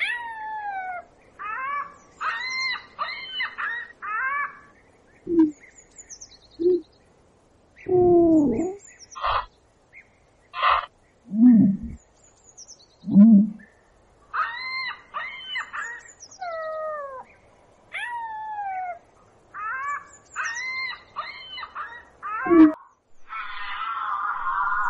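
Bird calls: repeated falling whistles and short runs of quick, harsh notes, with a few lower calls between about 5 and 14 seconds in.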